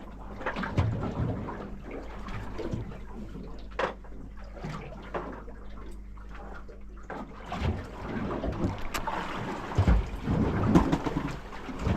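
Small fishing boat on the water: wind on the microphone and water moving around the hull, with scattered irregular knocks and a few louder thumps near the end. A steady low hum runs underneath and stops about seven seconds in.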